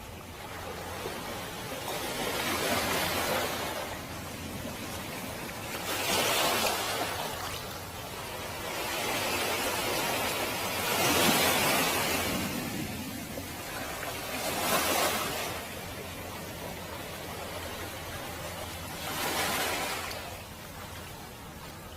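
Waves washing in and out over a beach of smooth round pebbles (mongdol). Five surges come about every four seconds, each a rush of hissing water and stones, the loudest about halfway through.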